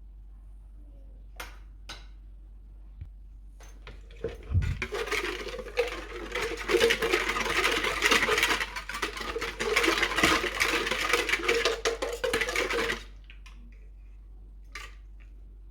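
Kitchen utensils and dishes clattering and scraping rapidly for about eight seconds, starting about four seconds in, with a few single clicks before and after.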